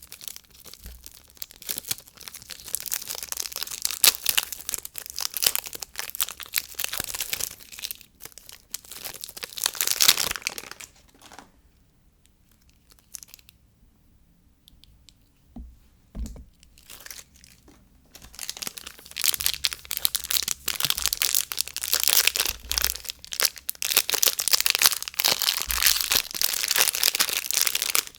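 Soap packaging being torn open and crinkled by hand: two long spells of dense crackling and tearing, with a quieter pause of several seconds in the middle.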